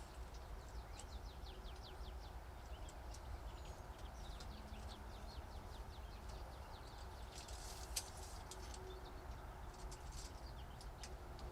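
Small forest birds chirping, with runs of quick, high, falling notes, over a low steady rumble. A single sharp click sounds about eight seconds in.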